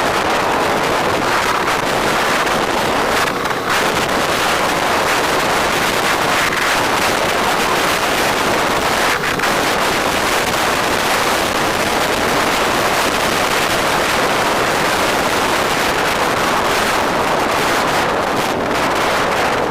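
Steady, loud wind rush over the microphone of a rider on the move, covering the vehicle and road sound beneath it.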